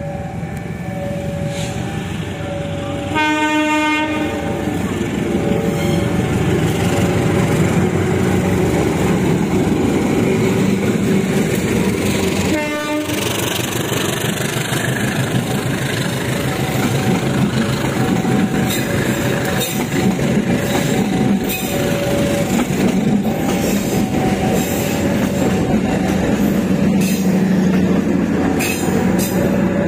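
A diesel-hauled commuter train departing and rolling past close by. The locomotive horn sounds about three seconds in and again, shorter, near the middle, and the carriages' wheels clack over the rail joints. A level-crossing warning bell rings in a repeating two-note pattern throughout.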